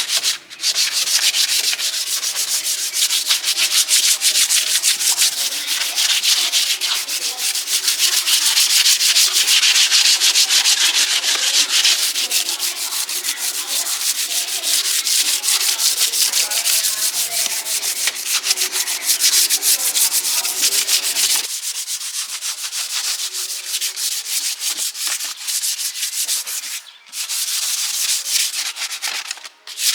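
Sanding: rapid, scratchy strokes of abrasive rubbing on a surface, with brief pauses about half a second in and twice near the end.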